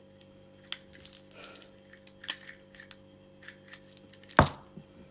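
Light clinks and scrapes of a spoon against a cup as sugar is added to coffee, then one sharp knock near the end.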